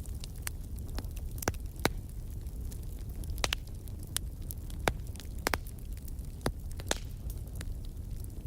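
Campfire crackling: about ten sharp, irregular pops over a steady low rumble.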